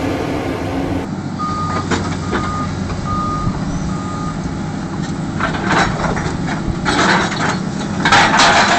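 Heavy machine's diesel engine running steadily while its reversing alarm beeps four times. Several loud bursts of rushing noise follow in the second half.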